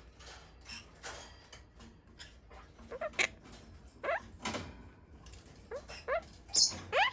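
Monk parakeet (quaker parrot) calling: a series of short chirps and calls, several sweeping upward in pitch, spaced about a second apart.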